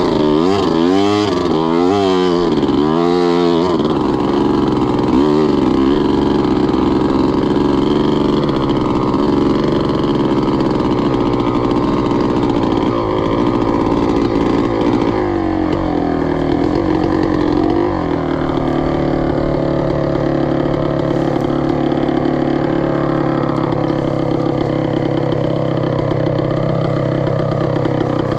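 Two-stroke engine of a Gas Gas EC300 enduro motorcycle revving in a string of quick rising-and-falling blips for the first few seconds, then running more steadily and settling into an even, low-speed drone for the second half.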